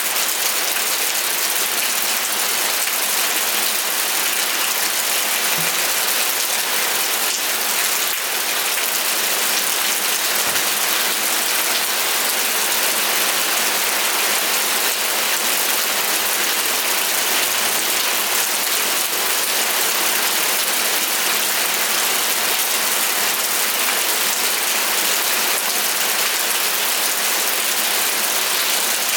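Steady rain falling, an even dense hiss of drops with no change in strength.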